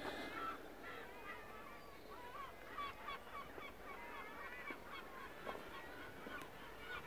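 Birds calling, with many short overlapping calls over a faint background.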